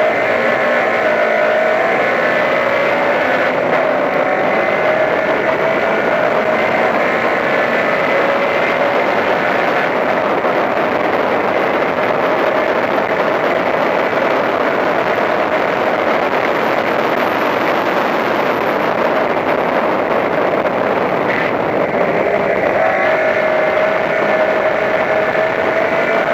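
Toyota Corolla Levin race car's four-cylinder engine running hard at racing speed, heard from on board with wind and road noise. The engine note climbs slowly as the car accelerates, once early and again near the end.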